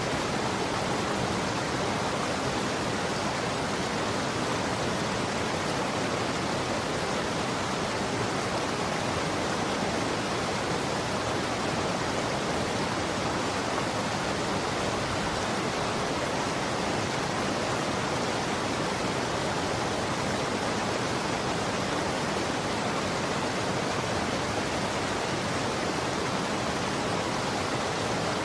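Running water flowing in a steady, unbroken rush, with no drips or splashes standing out.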